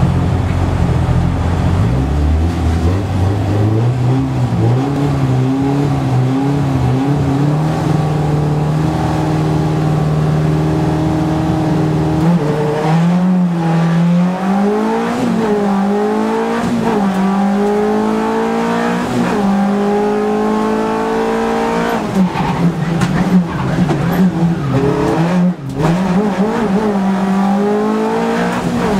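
Skoda Favorit 136 L rally car's four-cylinder engine heard from inside the cabin: the revs step up and are held steady for several seconds, then about twelve seconds in the car pulls away hard, the engine note climbing and dropping back at each of several upshifts.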